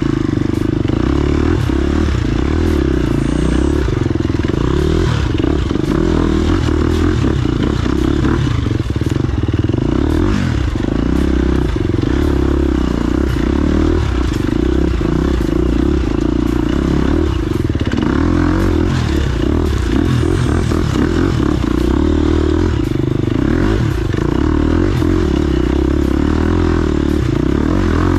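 Off-road motorcycle engine running at a fairly steady pitch, with frequent clattering and scraping clicks over it.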